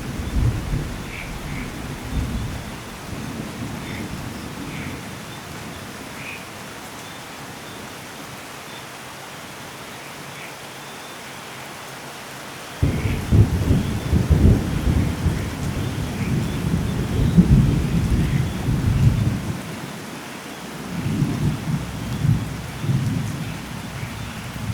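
Steady rain with scattered drop ticks, under rolling thunder. A rumble dies away over the first few seconds, and about halfway through a loud thunderclap breaks in suddenly and rolls for several seconds. A further, weaker rumble follows near the end.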